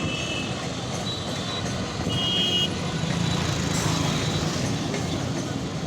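Railway platform noise: a vehicle or train engine hums steadily under a dense wash of background noise, growing a little louder about two seconds in. Two brief high tones sound near the start and about two seconds in.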